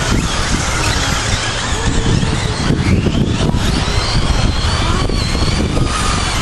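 Electric radio-controlled short course trucks racing, their motors making high whines that waver up and down in pitch over a steady low rumble.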